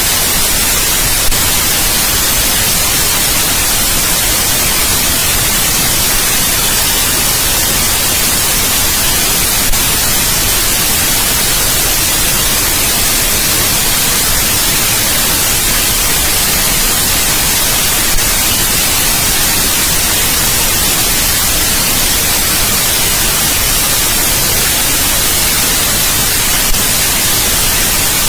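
Steady, unchanging white noise: an even hiss across the whole range, brightest in the treble, with a small click about every eight and a half seconds.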